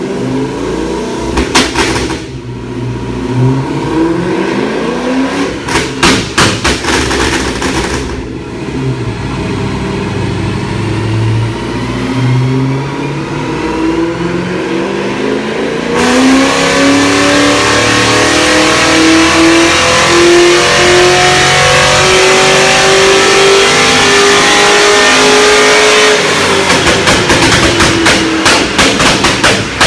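Chevrolet Lumina SS V8 with a full aftermarket exhaust under a dyno run. Throttle blips with sharp exhaust cracks come first, then a long full-throttle pull whose pitch rises steadily for over ten seconds. It cuts off suddenly at the top into a rapid run of exhaust pops and crackles.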